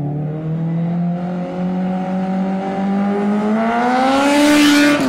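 Motorcycle engine accelerating under load, its pitch rising slowly and steadily and the sound growing louder, then dropping suddenly at the very end as at a gear change.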